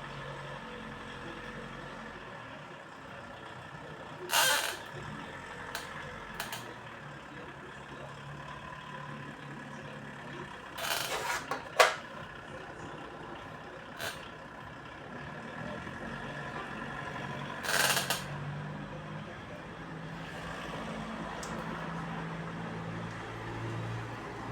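Short hissing blasts of compressed air, as from an air blow gun clearing out a fuel injection pump: one about four seconds in, a cluster of two or three around eleven to twelve seconds, another around eighteen seconds, with a few brief puffs between, over a steady low workshop hum.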